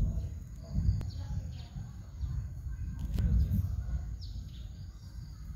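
Small birds chirping a few times over a low, uneven rumble that swells and fades.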